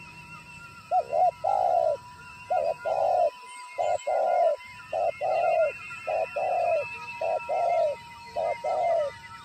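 Spotted dove cooing: seven phrases about a second apart, each a short note or two followed by a longer coo. Faint, high, wavering chirps and trills run behind it.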